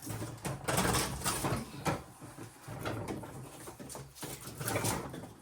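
Irregular scraping and rubbing noises, something being shifted about by hand.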